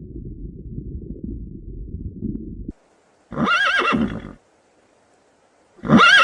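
A low rumbling noise that cuts off suddenly, then a horse whinnies: a warbling call about a second long. A second whinny begins near the end.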